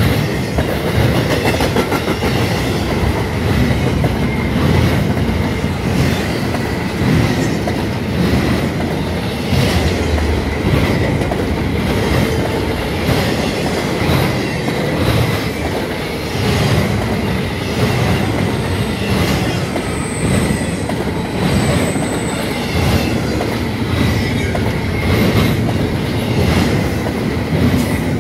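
Double-stack intermodal freight train rolling past close by: a steady rumble of steel wheels with repeated clacks over the rail joints, and a thin, steady high wheel squeal.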